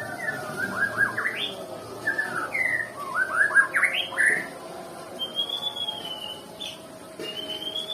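White-rumped shama singing: quick runs of short rising chirps, then a long wavering whistle and a second rising whistle near the end.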